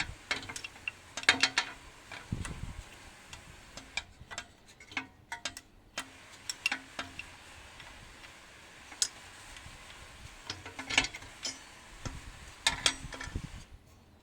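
Irregular light metallic clicks and clinks of hand tools and loose parts being handled, some single and some in quick little clusters.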